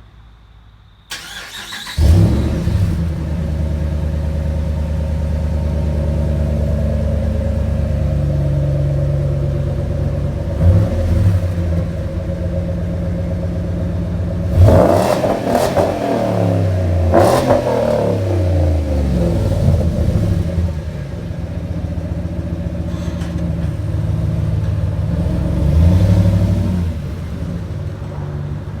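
4.6-litre 32-valve modular V8 through Stainlessworks chambered mufflers, starting up about two seconds in and then idling with a steady exhaust burble. The throttle is blipped several times, each rev rising and falling back, the two strongest a little past the middle.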